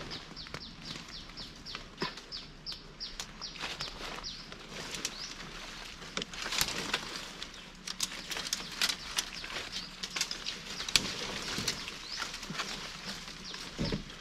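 A bird calls a quick run of short falling notes, about three a second, for the first five seconds. Throughout, there are rustling and sharp snaps and knocks, the loudest about halfway through and again near 11 seconds in.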